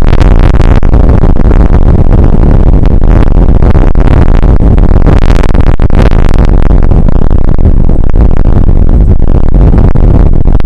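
Rain shower and wind on an outdoor weather camera's microphone, heard as a loud, steady, distorted rumble that overloads the recording.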